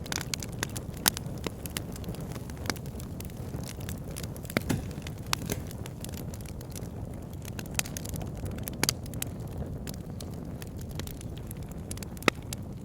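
Wood fire in a log burner crackling, with irregular sharp pops over a steady low rumble of burning logs.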